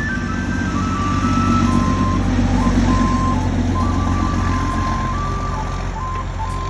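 Heavy vehicle's engine running with a low, steady rumble, under a simple electronic tune of single beeping notes that steps up and down in pitch.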